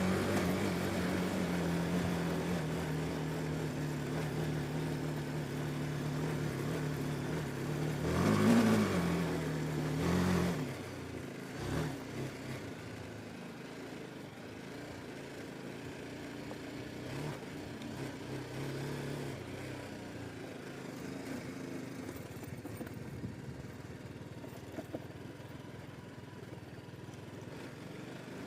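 BMW G310 GS single-cylinder motorcycle engine running steadily. It revs up sharply and falls back about eight seconds in, swells again a couple of seconds later, then drops to a quieter, lower running for the rest.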